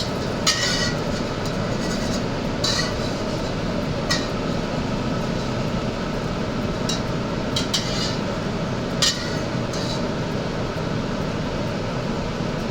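Metal utensil clinking against a cooking pan, about eight light separate strikes, over a steady rushing kitchen noise.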